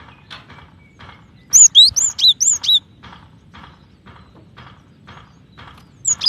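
Female cinereous tit calling: a quick burst of about half a dozen sharp, swooping high chirps about a second and a half in, and another burst starting near the end. Faint, evenly repeated notes, two or three a second, run between the bursts.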